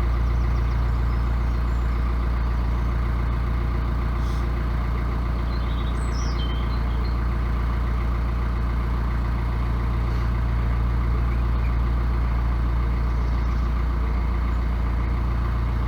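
Narrowboat's diesel engine running steadily at cruising speed, a constant low hum with no change in pace.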